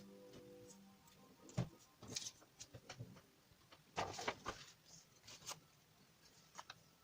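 Faint, scattered rustles and clicks of paper and craft materials being handled, with the tail of background music fading out in the first second.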